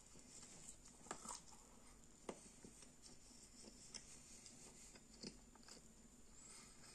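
Faint mouth sounds of a person chewing a bite of corn dog, with a few soft clicks scattered through.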